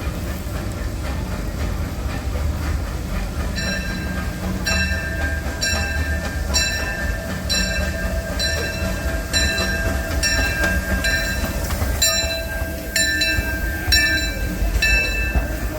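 Steam-hauled passenger train rolling along with a steady low rumble. From a few seconds in, a metallic ring repeats about once a second.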